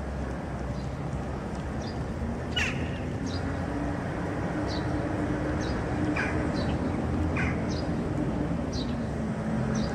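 A few short falling bird calls and scattered high chirps over a steady low rumble.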